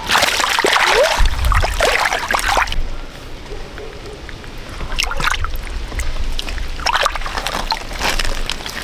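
Water splashing and sloshing in three bouts: a long one over the first few seconds, a brief one about halfway and another near the end.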